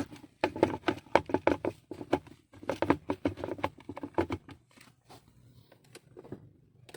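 Handbrake lever ratchet on a Toyota Corolla clicking in quick runs as the lever is pulled up, three times in the first four and a half seconds, while a handbrake that sets too high is checked before adjustment.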